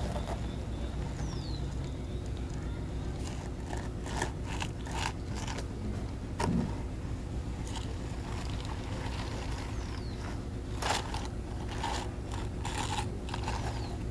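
A small motor running with a steady low hum, with scattered scrapes, crunches and clicks.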